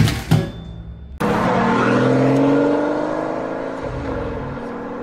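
A couple of sharp clicks, then a car engine sound effect cuts in abruptly about a second in, revving up and then easing off slowly.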